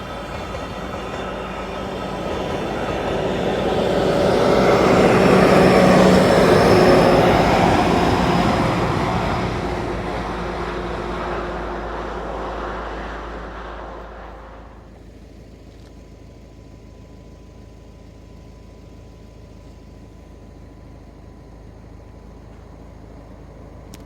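A VIA Rail Siemens Charger diesel-electric locomotive and its passenger train passing by, growing louder to a peak about six seconds in and fading away by about fifteen seconds, after which only a faint steady hum remains.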